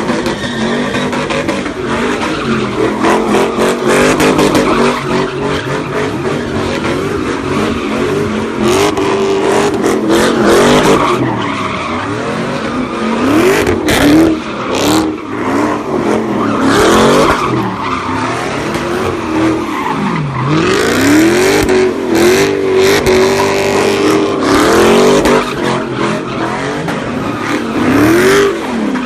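A car engine revving hard, its pitch rising and falling again and again, with tires skidding and squealing as the car spins donuts.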